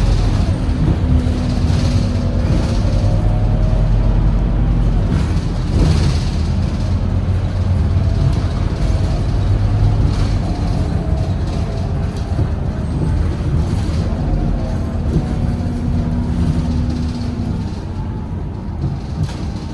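Scania K230UB bus with its five-cylinder diesel engine running under way: a heavy, steady engine rumble, with a drivetrain whine that rises in pitch several times as the bus gathers speed.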